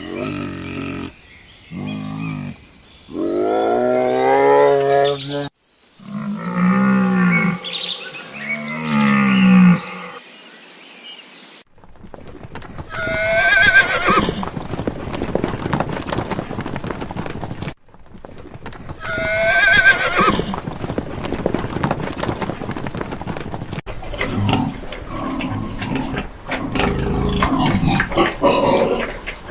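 Farm animals calling. Low, drawn-out moos come in the first ten seconds, then two high, wavering horse whinnies, one in the middle and one a few seconds later.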